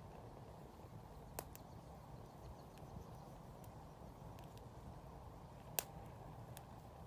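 Wood campfire burning with a low, steady rush, broken by sharp crackles and pops. One pop comes about a second and a half in, the loudest near six seconds, and a few fainter snaps fall in between.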